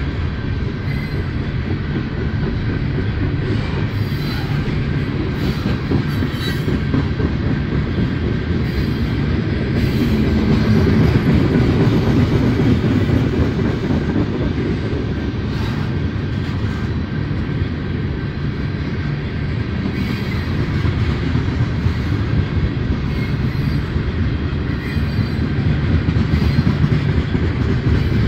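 Tank cars of a Union Pacific mixed freight train rolling by: a steady rumble of wheels on rail, with a thin, faint wheel squeal above it.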